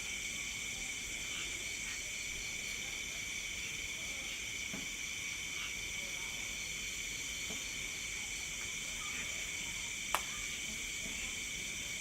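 Night insect chorus: steady, layered high-pitched trilling in several overlapping pitches, one of them pulsing quickly. One sharp click about ten seconds in.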